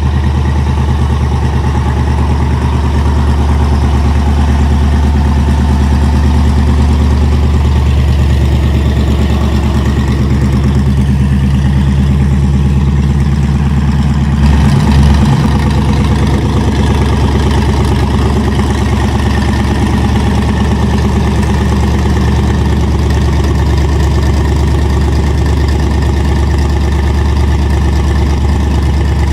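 A car engine idling at close range, low and steady. There is a brief change in the engine sound about halfway through.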